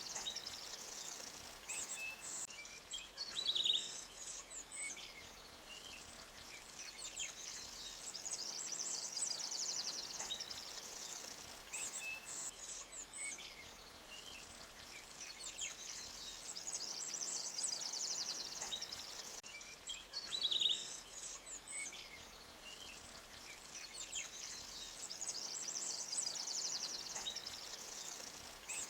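Forest ambience: high, rapid chirping of birds or insects that swells and fades every eight seconds or so, with scattered short bird calls, two of them louder, a few seconds in and about two-thirds through. Faint flowing water from a small stream lies underneath.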